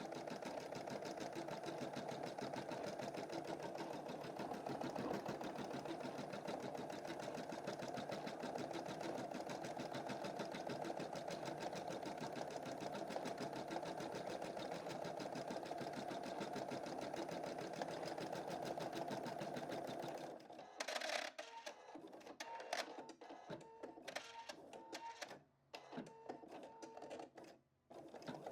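Computerized embroidery machine stitching with a fast, even needle rhythm for about twenty seconds, then stopping suddenly. Scattered clicks and a run of short beeps follow, and the stitching starts again at the very end.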